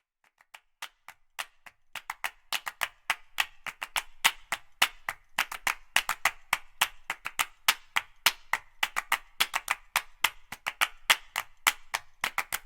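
A rapid, irregular series of sharp taps or clicks, a few scattered ones at first, then growing dense at several a second.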